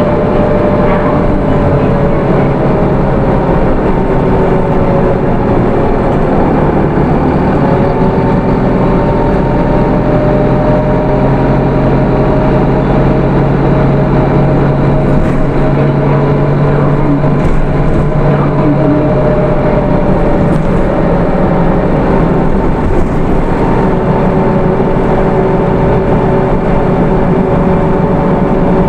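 Hino Rainbow II city bus under way, its Isuzu 4HK1 four-cylinder diesel running steadily through the automatic transmission. The engine note dips briefly about six to seven seconds in, then rises again and holds steady.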